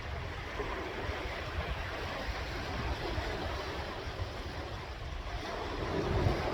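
Sea waves washing and breaking on the shore, a steady rush with a low rumble; one wave swells louder near the end.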